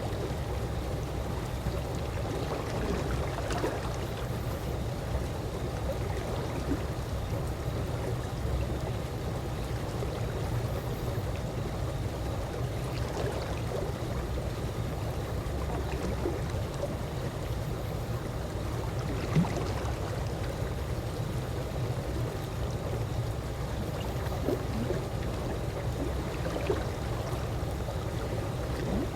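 Calm pool water, a steady watery noise of gently moving and trickling water, with a few brief louder moments, the clearest about two-thirds of the way through.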